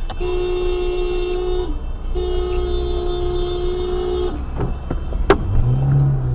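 A vehicle horn sounding two long, steady blasts over road noise, followed by a sharp knock about five seconds in.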